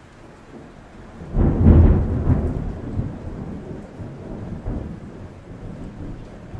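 A clap of thunder over steady rain on a roof: a sudden loud low crack about a second in, then a long rumble that rolls on with smaller surges and slowly fades.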